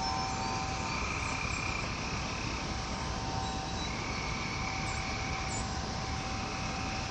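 Steady rushing ambient noise with wind chime tones ringing and slowly fading over it, a higher chime note sounding about a second in and again about four seconds in, and faint high chirps.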